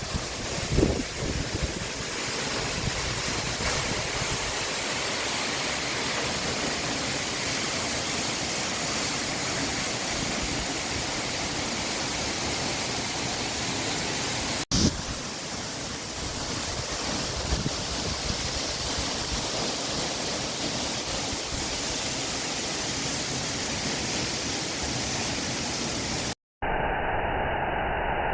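Waterfall roaring with a steady, even rush of falling water, broken by a brief cut about halfway. Near the end it drops out and gives way to a duller, muffled noise.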